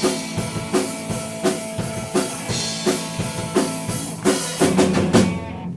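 Live rock band playing: drum kit beating a steady pattern, about one hit every 0.7 s, under held guitar and bass notes. The song stops shortly before the end.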